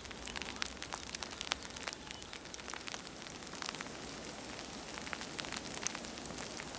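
Sleet pellets falling through trees: a steady hiss dotted with many small, sharp ticks, irregular and close together.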